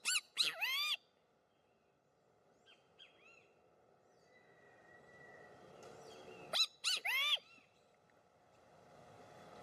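Loud bird calls: a quick series of short notes, each rising and falling in pitch, just at the start and again about six and a half seconds in, with fainter answering calls between.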